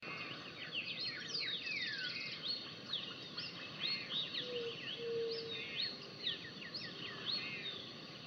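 Several birds chirping and calling, with quick overlapping whistled notes and down-sweeping calls over a faint outdoor hiss. Two short, lower notes come a little past the middle.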